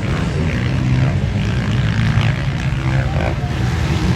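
Motocross bike engine running with small shifts in pitch.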